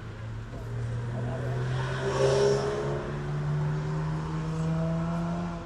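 Car engine running with its pitch rising slowly, as when a car pulls away gently. It is loudest about two seconds in and stops abruptly at the end.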